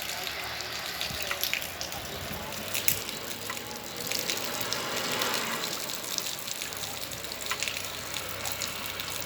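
The flooded Catolé river flowing fast: a steady rush of water.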